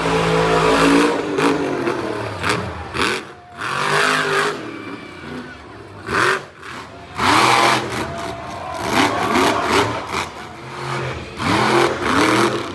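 Monster truck engine revving hard again and again, its pitch rising and falling in quick glides. Sudden noisy bursts come between the revs.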